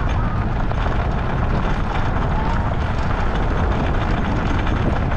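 Off-road luge cart rolling downhill over a rough, dusty dirt track: a steady low rumble from the wheels, with many small rattles and knocks.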